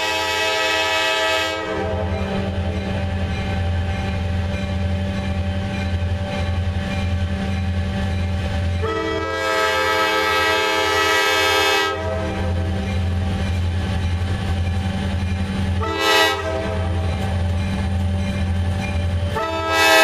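Diesel freight locomotive sounding its multi-note air horn in the grade-crossing pattern: a long blast ending a second or so in, another long blast in the middle, a short one and a final long one beginning near the end. The locomotive's diesel engine runs steadily underneath.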